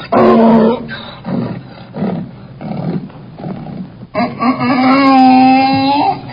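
An animal calling: a loud short call at the start, softer broken calls, then one long drawn-out call of about two seconds near the end.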